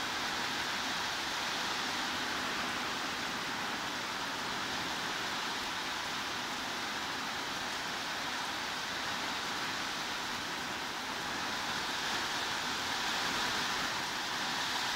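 Steady heavy rain: an even hiss with no single drops or thunder standing out.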